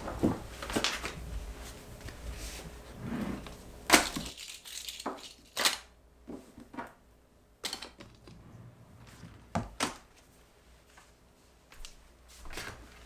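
Objects being handled in a small room: irregular knocks, clicks and rustling, the sharpest knock about four seconds in.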